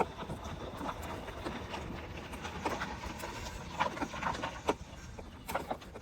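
Irregular light knocks and clicks, scattered unevenly and loudest toward the end.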